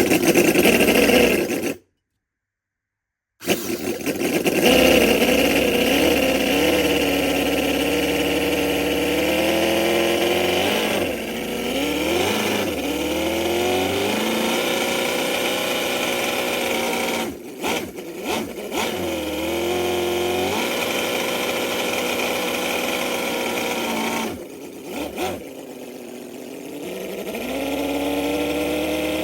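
Cison V8 scale model engine running, its pitch rising and falling several times as the throttle is opened and closed. A brief cut to silence about two seconds in.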